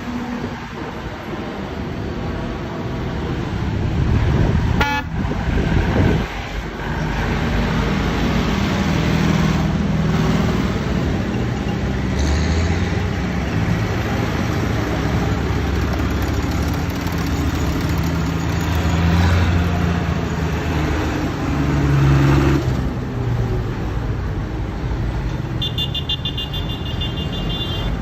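Old tractor engines running as a procession of tractors drives past, the low rumble swelling and easing as each one comes near and goes by. A short horn toot sounds about five seconds in.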